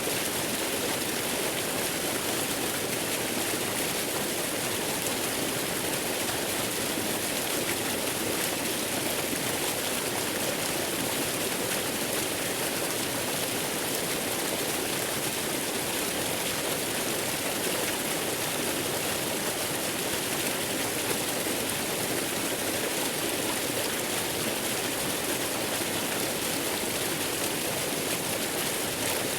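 Waterfall or rushing water as steady white-noise ambience: an even, unbroken hiss strongest in the high end, with no change in level or character.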